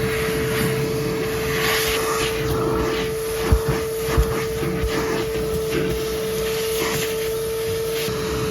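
Vacuum cleaner running steadily with a constant whine over its rushing airflow, used to vacuum a car's interior; two short knocks a little past the middle, as the nozzle bumps against the interior.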